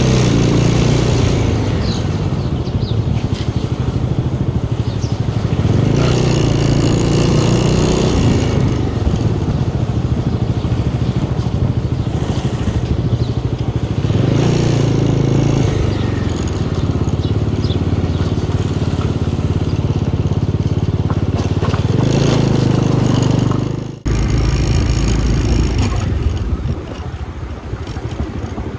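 Motorcycle engine running steadily while riding, with wind rushing over the microphone in surges that rise and fall. The sound breaks off abruptly about 24 seconds in and resumes.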